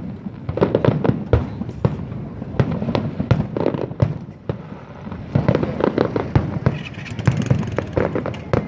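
Fireworks bursting in rapid, overlapping volleys: many sharp bangs and booms with crackling, in clusters that swell and ease off.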